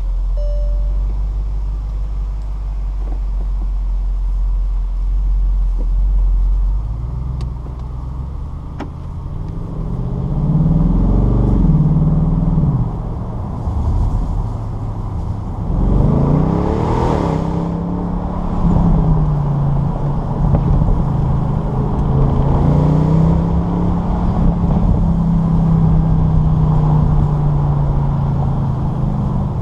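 The 2016 Bentley Continental GTC V8 S's 4.0-litre twin-turbo V8, heard from inside the car. It runs with a steady low rumble at first, then revs up and down as the car pulls away. About halfway through, a hard burst of acceleration sends the pitch climbing steeply before it eases back into a steady cruise.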